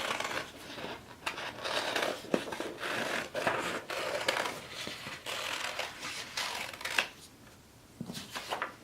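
Scissors cutting through construction paper in a run of repeated snips, with the paper rustling; the cutting stops about seven seconds in, leaving quieter paper handling.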